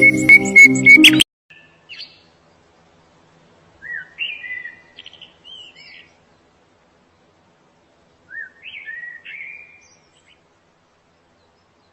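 Music cuts off suddenly about a second in, leaving a songbird singing. It sings short phrases of quick rising and falling notes in two main bursts, separated by quiet.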